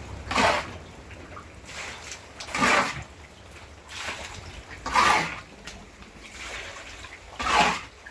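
Water splashing in four short surges, about two and a half seconds apart, over a low steady wash of noise.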